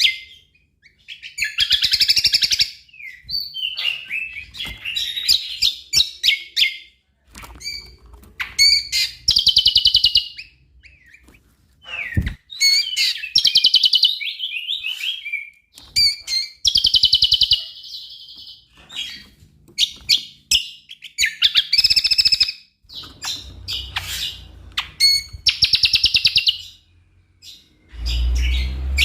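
A cucak kombo songbird singing hard, in busy chirping and whistling phrases of one to two seconds with short pauses between them. There is a low rumble near the end.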